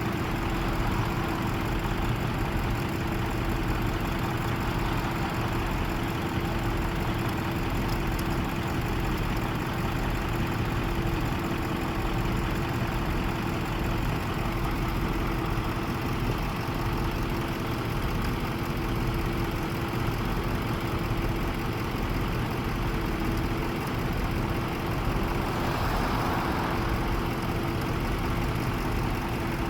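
Truck engine idling steadily, a constant low rumble with a steady hum over it.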